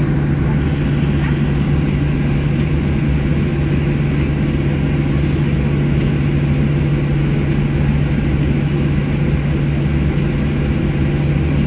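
Steady cabin drone inside a Boeing 737-700 on the ground after landing: an even, loud noise with a strong low hum that does not change.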